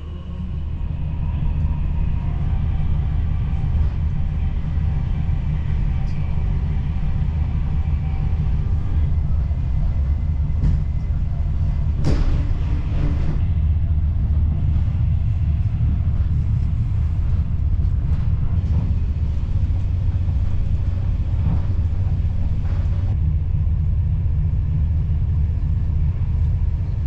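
Train's steady low rumble, with a brief clatter about twelve seconds in.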